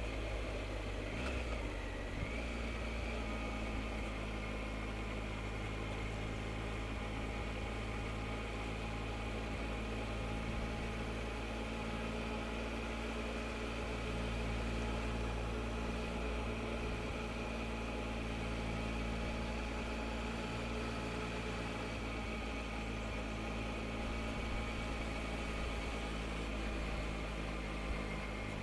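Triumph Explorer three-cylinder motorcycle engine running at a steady cruise, heard from on the bike along with road and wind rush.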